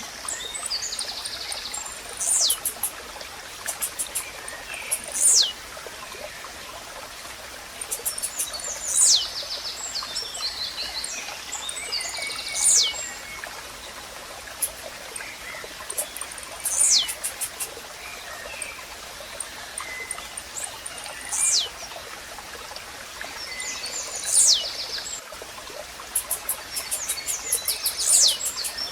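Blue-black grassquit (tiziu) singing its short, sharp song, a quick downward-sweeping note repeated about every three to four seconds, eight times in all. Fainter chirps of other birds and a steady wash of background noise like running water lie beneath.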